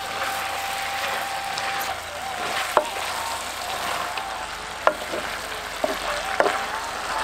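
Gongura leaves and mutton sizzling as they are sautéed in a clay pot, stirred with a wooden spatula that knocks against the pot four times, the first about three seconds in.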